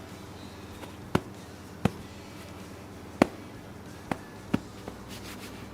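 Six short, sharp clicks or taps at irregular intervals over a faint steady hum.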